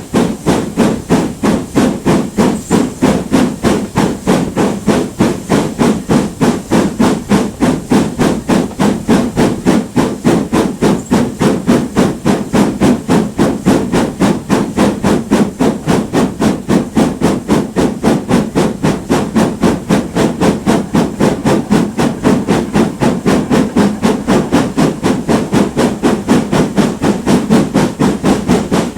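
GWR Manor class two-cylinder 4-6-0 steam locomotive working hard, its exhaust beating out a quick, even chuff, several beats a second, with steam hiss between the beats.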